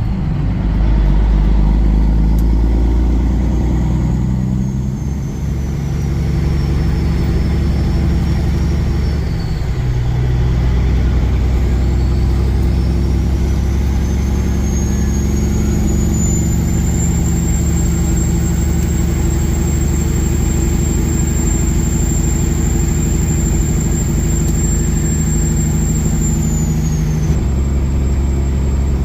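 Semi-truck's diesel engine pulling under load, its low drone stepping in pitch twice early on as it changes gear. A high whine rises and holds, then falls away near the end.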